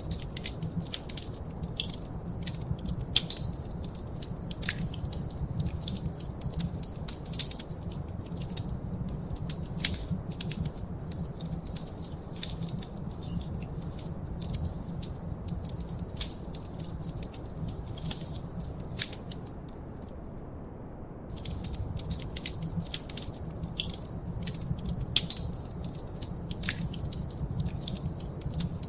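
Wood fire crackling in a fireplace: dense, irregular pops and snaps over a low steady background. The crackle drops out for about a second roughly two-thirds of the way through, then resumes.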